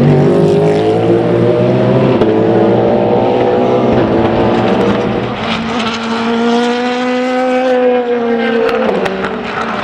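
Race cars at speed on a circuit. One car's engine note runs through the first half and fades. About five seconds in, a second car's engine comes up, its note climbing and then dropping as it passes, with a brief break near the end like a gear change.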